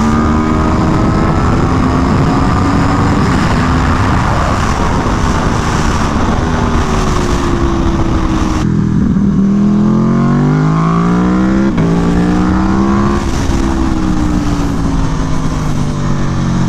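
Aprilia Tuono V4 1100 Factory's V4 engine through an SC Project CR-T exhaust, ridden hard on track. The engine note falls off the throttle, then climbs again from about nine seconds in, with a brief break partway up, and falls once more near the end, over steady wind rush.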